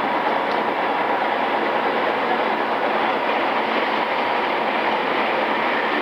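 Running noise of a JR East E217-series commuter electric train (pre-renewal), heard from inside the motor car while it travels along at steady speed: an even rumble of wheels on rail with a faint steady hum.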